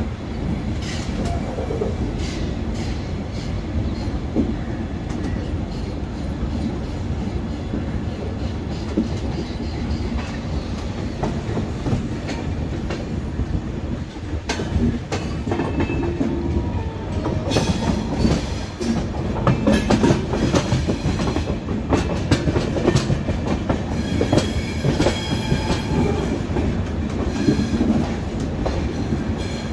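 Passenger train coaches rolling at low speed, heard from an open coach door: a steady rumble of wheels on rail, with clicking and clattering over joints and points that grows busier in the second half, and a few faint wheel squeals.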